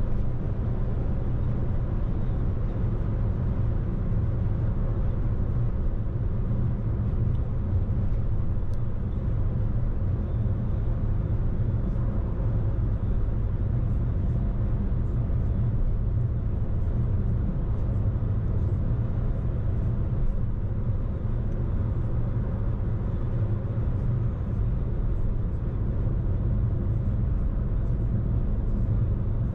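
A car being driven, heard as a steady low rumble of engine and tyre noise that stays even throughout.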